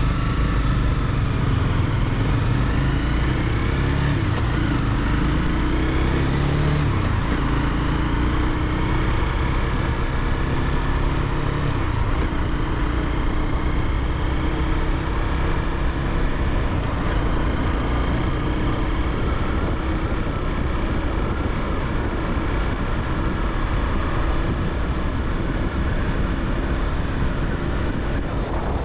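Honda CBR300R's single-cylinder engine running under way. Its pitch climbs and falls with the throttle over the first several seconds, then holds fairly steady.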